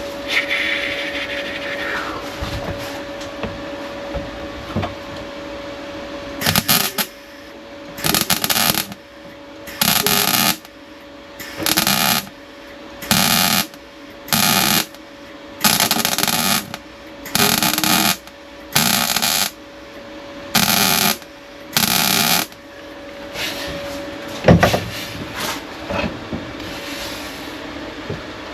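MIG welder stitch-welding a steel repair panel into a car boot floor, in about eleven short crackling bursts, one roughly every second and a half, over a steady hum. A single sharp knock follows near the end.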